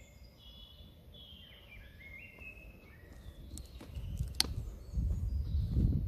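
Woodland birds singing in short, stepped whistled phrases. About four seconds in there is a sharp click, then a low rumble on the microphone that grows louder toward the end.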